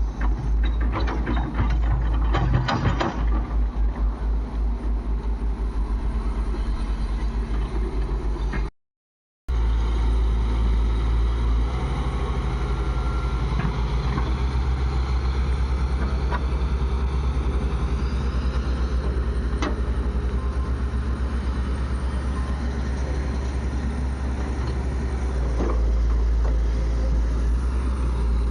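Diesel engine of heavy machinery, a backhoe loader or tractor, running steadily with a pulsing low note, with some rattling clanks in the first few seconds. The sound drops out completely for a moment about nine seconds in.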